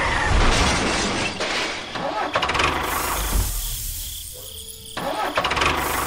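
A vehicle engine running, a rough rumbling noise for a mini tractor driving through sand, with short voice-like sounds mixed in. It drops back for a second or so past the middle, then picks up again.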